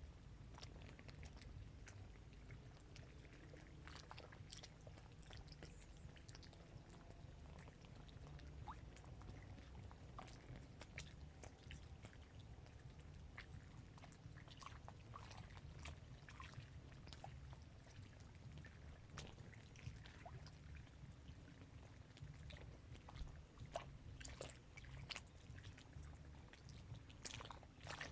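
Small waves lapping at the edge of a dam reservoir: faint, irregular splashes and clicks over a low steady rumble.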